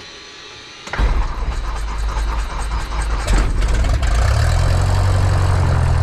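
Cessna 172's piston engine starting: about a second in it cranks and catches, runs unevenly, then settles into a steady idle from about four seconds in. It restarts after the pilot reset the fuel selector; he suspects he had turned the fuel off, which would explain the engine dying.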